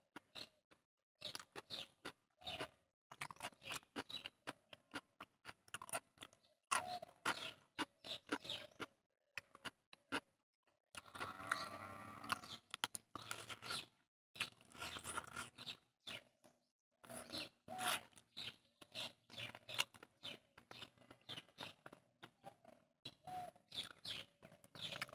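Close-miked chewing of chicken curry and rice eaten by hand, in clusters of short mouth clicks separated by brief pauses.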